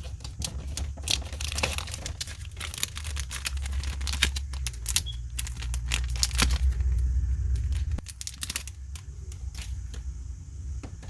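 Figure packaging being handled, crinkling and tearing in a run of irregular sharp crackles and clicks, over a low rumble that drops away about eight seconds in.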